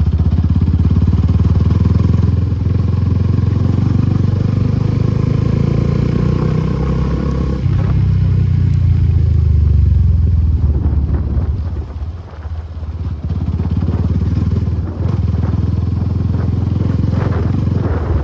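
Suzuki Gixxer SF250's single-cylinder engine running through an aftermarket Akrapovic exhaust while riding along at steady throttle. The engine note changes pitch about eight seconds in, and the bike eases off briefly around twelve seconds before pulling again.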